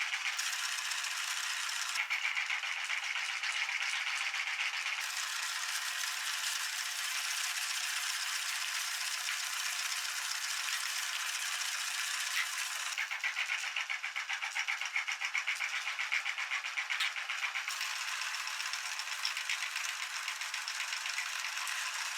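Meat grinder running and grinding cheese, a dense, fast rattle that continues throughout and changes abruptly in character a few times.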